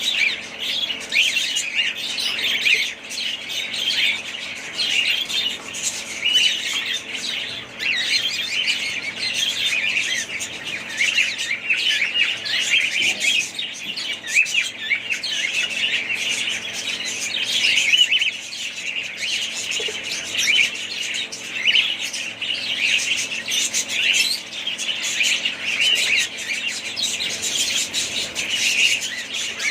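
A flock of budgerigars chattering, with many quick overlapping chirps and warbles going on without a break.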